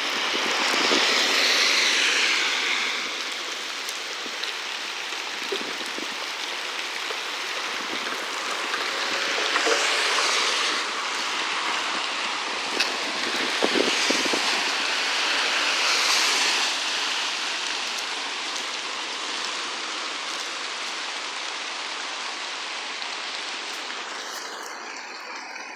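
Heavy rain falling, a steady hiss that swells louder a few times.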